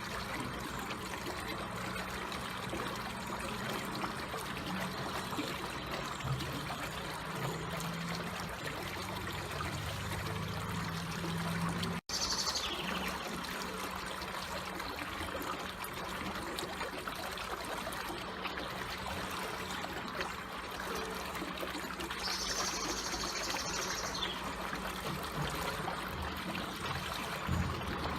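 Water flowing slowly, trickling steadily. Twice, briefly, a short high-pitched sound rises above the water, about 12 seconds in and again about 22 seconds in.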